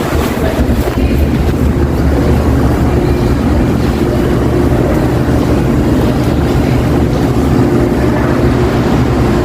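Supermarket ambience in the butcher and cold-cuts area: a steady low hum with a constant murmur of background noise.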